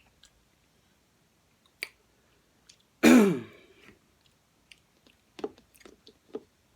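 A person clears their throat once, loudly, about three seconds in, among soft mouth and chewing sounds from eating cotton candy.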